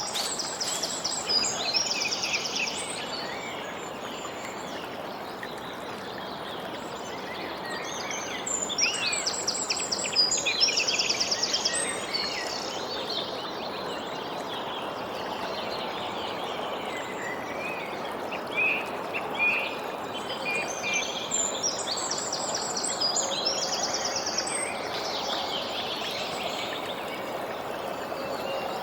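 A songbird sings a high, rapid trilled phrase three times, about ten seconds apart, over a steady background rush.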